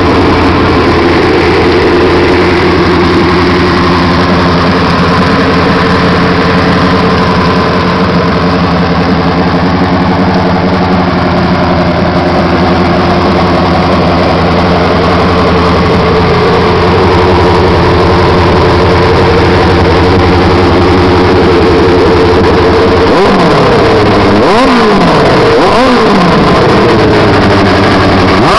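1982 Suzuki Katana 1100 race bike's inline-four engine idling steadily, then blipped several times near the end, the revs rising and falling quickly each time.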